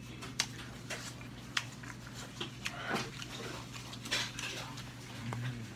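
Close-up eating sounds of a man chewing a soft pizza hotdog with his mouth open: irregular wet smacks and sharp clicks, with a couple of noisy breaths, over a steady low hum.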